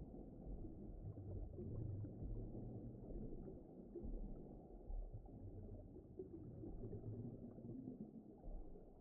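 Deep-ocean underwater ambience: a low, muffled rumble that slowly swells and fades, with nothing high-pitched in it.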